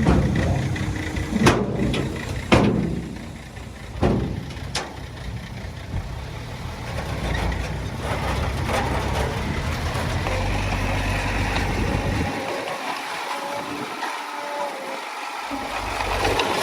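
Heavy diesel earthmoving machinery running steadily, with several sharp clanks in the first five seconds. Near the end the low rumble drops away.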